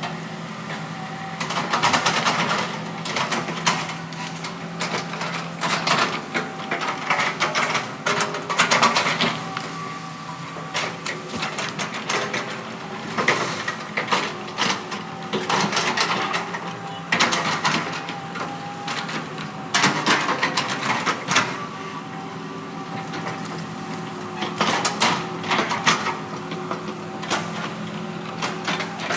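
Heavy earthmoving machine's engine running steadily, with repeated irregular bursts of metallic clanking and rattling.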